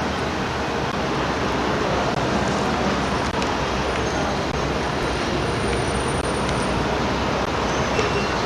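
Steady road and engine noise of a car driving, an even rushing hiss without breaks.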